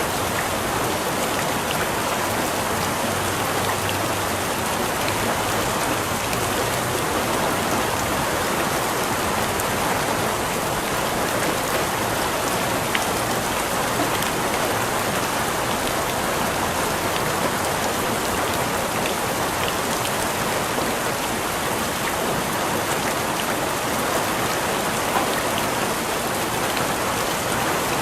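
Steady rain falling on a surface, an even patter of drops with a few sharper drips standing out.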